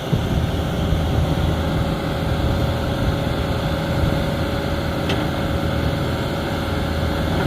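Diesel engine running steadily at idle, with a thin steady whine over it. A single short click about five seconds in.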